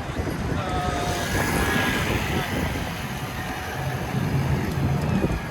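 Busy city street noise: a steady rumble of traffic.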